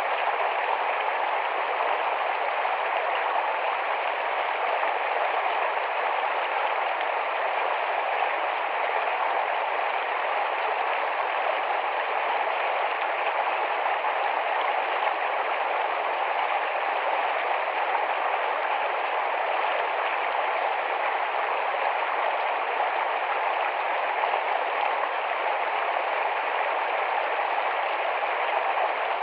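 Rapid, shallow forest stream rushing and babbling over stones, a steady even flow of water with no breaks.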